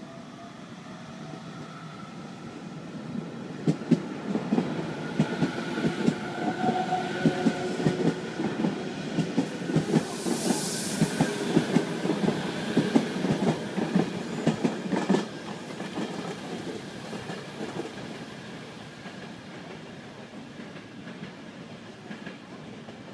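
JR Kyushu 817 series electric train passing close by, its wheels clicking rapidly over the rail joints over a faint whine. The sound builds over a few seconds, peaks with a brief hiss about ten seconds in, and dies away after about fifteen seconds.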